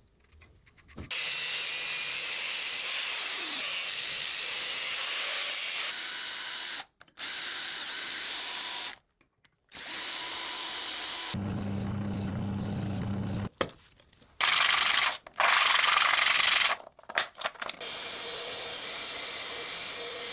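Power tools working the steel of an old saw blade being shaped into a knife, heard in a string of short clips cut together. Each clip is a steady run of tool noise that stops abruptly, one with a deep motor hum, and louder bursts follow about two-thirds of the way through.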